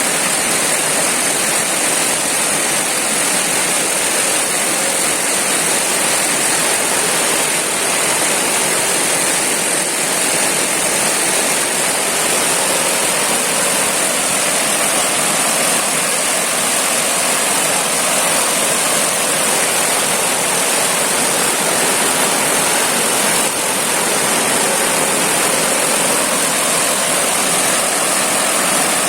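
Rushing water at a waterfall: a loud, steady, unbroken roar, with a steady high-pitched hiss or whine riding on top.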